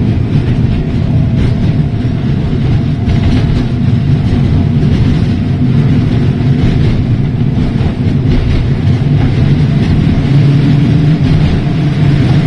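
Heritage electric tram running along the line, a loud, steady rumble of wheels on rail and running gear heard from on board.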